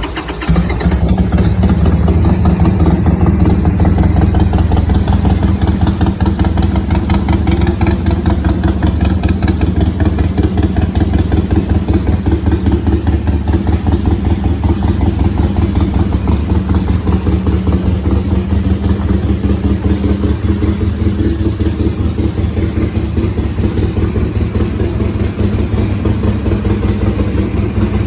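Harley-Davidson XL 883 Sportster's air-cooled V-twin catching about half a second in, then idling steadily with a rapid, even pulse.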